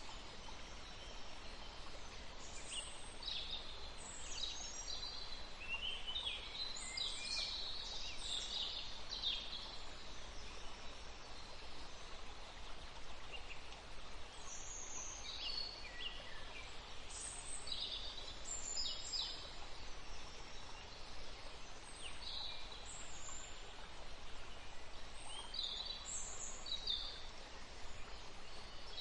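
Songbirds chirping in a forest: many short, high calls come in clusters, over steady background noise.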